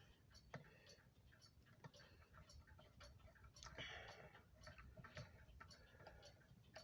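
Faint, steady ticking of a clock, about two ticks a second, with a light rustle of handling about four seconds in.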